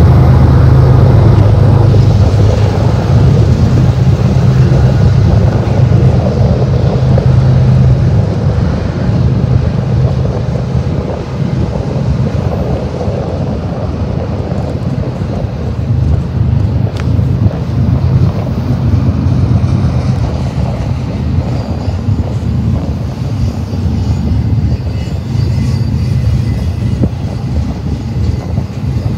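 Freight train's double-stack intermodal well cars rolling past on the rails: a loud, steady low rumble of wheels and cars, easing slightly after about eleven seconds.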